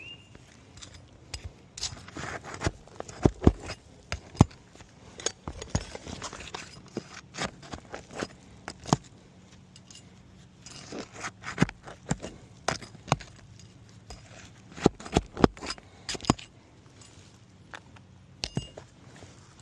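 A hand tool working asphalt shingles loose on a roof, in bouts of sharp clicks, cracks and scraping as the sealed shingles tear and come apart. The tearing marks shingles too brittle to release cleanly, a failed repair test.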